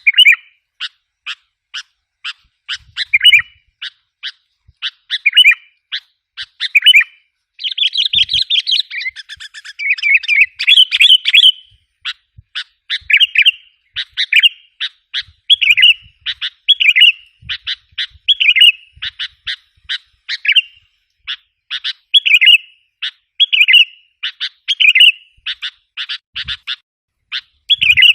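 Sooty-headed bulbul (kutilang) lure call: sharp chip notes about twice a second alternating with short bubbly warbled phrases, with a denser burst of chattering about eight seconds in.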